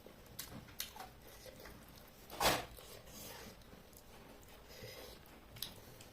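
Quiet eating sounds of a person eating chicken curry and rice: faint wet chewing and lip clicks, with one louder short burst of noise about two and a half seconds in.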